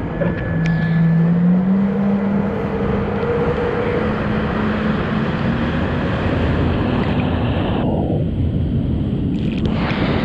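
Yamaha WaveRunner jet ski running under way, its engine note rising over the first couple of seconds and then holding steady, with a constant rush of water and wind.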